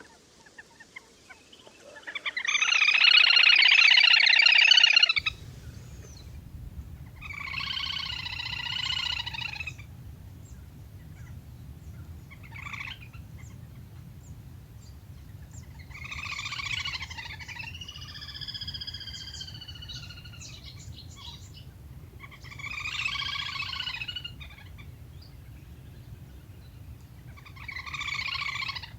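Recorded le le hôi (whistling duck) calls used to call in a flock. There are about six bursts of chattering whistled calls, each one to three seconds long, and the first is the loudest. A low steady hum runs under the calls from about five seconds in.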